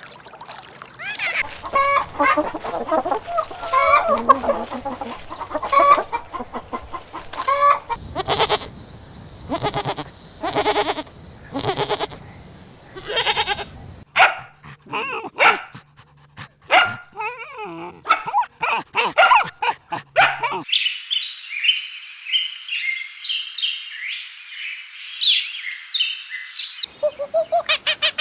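A run of farm animal calls that changes every few seconds, chickens clucking and a dog barking among them, with high chirping calls in the later part.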